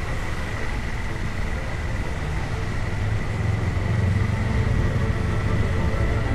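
Honda CBR400R's parallel-twin engine running on the move, with wind rushing over the microphone and a steady high whine. It grows a little louder about three seconds in.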